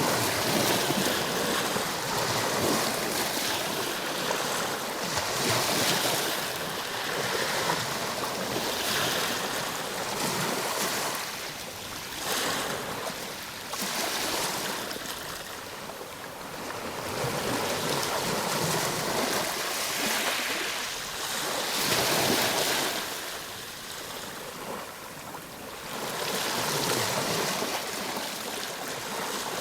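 Ocean waves breaking and washing onto shore, the surf rising and falling in swells every few seconds.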